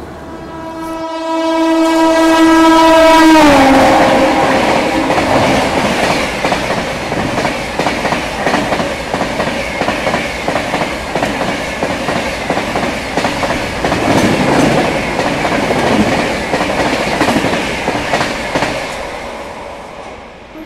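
Express train passing at speed on the main line beside a stationary train: its locomotive horn sounds for about three seconds and drops in pitch as the engine goes by. The coaches then rush and clatter past on the rails for some fifteen seconds, fading near the end.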